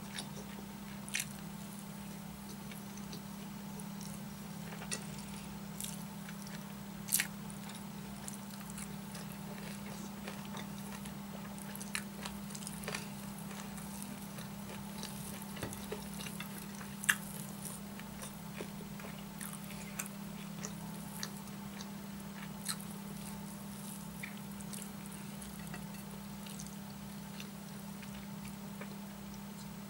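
Close-miked mouth sounds of chewing a mouthful of rice with chewy, rubbery chicken gizzard and purple cabbage, with scattered sharp wet clicks. A steady low hum lies underneath.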